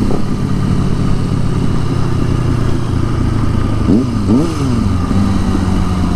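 Motorcycle engine running at low revs, with two quick throttle blips about four seconds in, each rising and falling in pitch.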